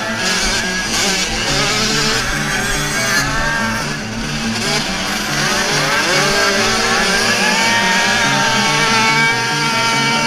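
Small racing motocross bike engines revving, their pitch rising and falling as they accelerate and shift, mixed with background music that has a steady repeating beat.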